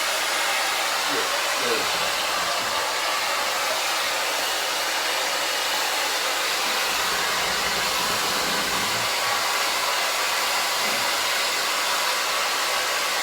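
Hand-held hair dryer blowing a steady, unchanging airflow while drying a dog's coat after a bath.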